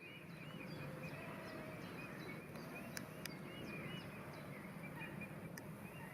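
Female Fischer's lovebirds chirping in a quick, continuous stream of short, repeated calls over a steady low hum. A few sharp clicks come about halfway through and again near the end.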